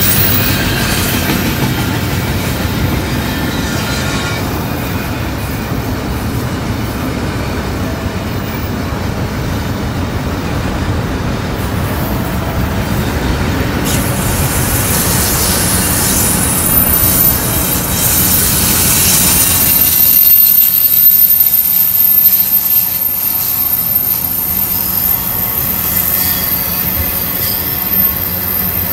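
Freight train cars rolling by on the rails, a steady loud rolling noise with wheel squeal; it grows brighter and louder about two-thirds of the way through.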